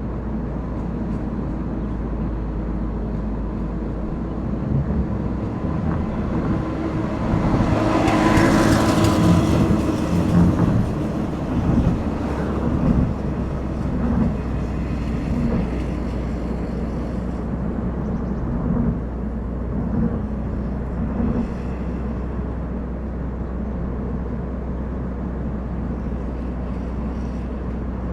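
Car driving on a road: a steady low rumble of tyres and engine, with a louder rushing swell about eight to ten seconds in that fades back to the steady rumble.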